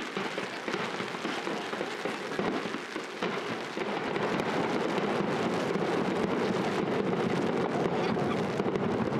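Heavy rain falling, a steady hiss thick with small drop impacts, growing louder about three and a half seconds in.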